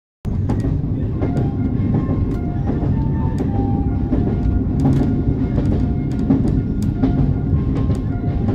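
Train carriage in motion, heard from inside: a loud, steady low rumble with irregular clacks and rattles and scattered short high tones. It cuts in suddenly just after the start.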